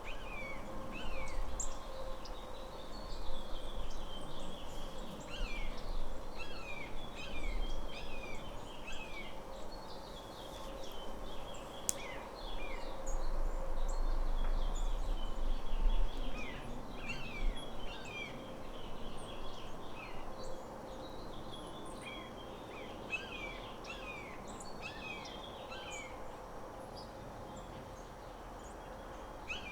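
Small birds chirping: many short, falling chirps come one after another all through, over a low rumble that swells in the middle and a faint steady hum.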